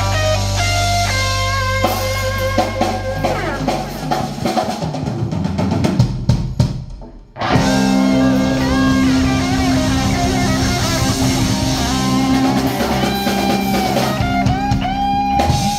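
Live band playing an instrumental passage with guitars and drum kit. The music stops for a moment about seven seconds in, then starts again.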